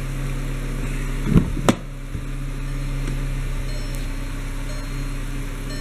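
Volkswagen Jetta wagon engine idling steadily, with two loud clunks about a second and a half in as the driver's door is opened, then a light click.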